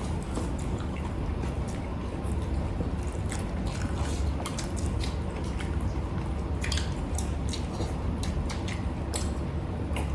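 Close-miked eating: wet chewing and mouth smacks with scattered small clicks. Under them runs a steady low hum from an air conditioner.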